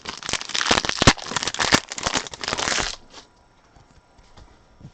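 A trading-card pack's wrapper being torn open and crinkled, a dense crackling rustle that stops about three seconds in, followed by a few faint clicks of cards being handled.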